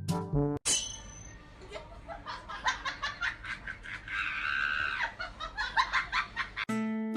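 A person laughing in short repeated bursts, with a longer high-pitched shriek of laughter in the middle; a moment of background music before it and strummed music cutting in near the end.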